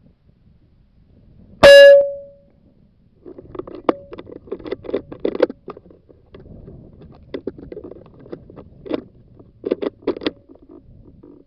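A single loud air rifle shot about two seconds in, with a brief ringing tone after the crack. It is followed by irregular rustling and knocking.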